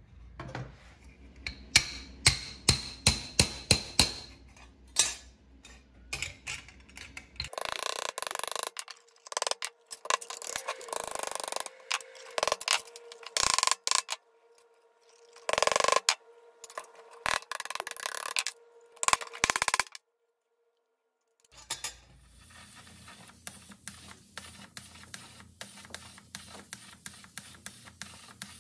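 Light, quick hammer taps on a dented steel toy part held on a small anvil, then a stretch of louder, irregular rasping and scraping bursts on the metal. Near the end comes the steady hum of a powder-coating spray gun with fast, regular ticking.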